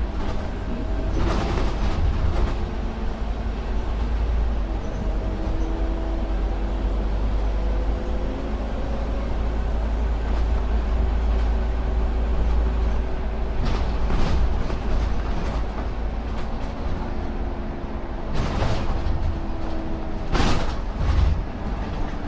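Scania K310UD double-decker bus under way, its engine running with a low steady rumble and a gear whine that drifts up and down in pitch. Four short bursts of hiss break in, about a second and a half in, near the middle and twice near the end.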